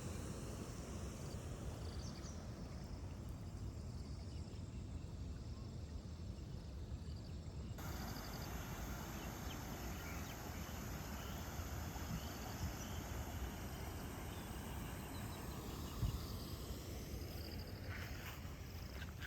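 Outdoor farm ambience: a steady low rumble of wind on the microphone with faint insects chirping. One short thump about three seconds before the end.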